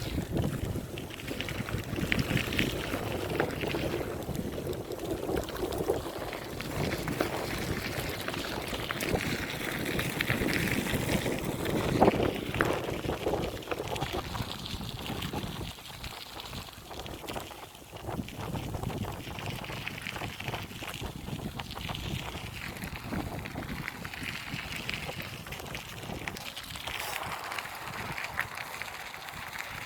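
Wind rushing over the microphone and road noise from a bicycle riding along, louder in the first half and easing off about halfway through.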